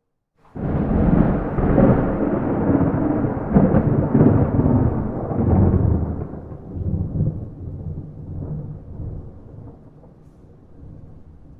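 A single peal of thunder cracking in suddenly about half a second in, loud for about five seconds, then rolling on and fading away in uneven rumbles.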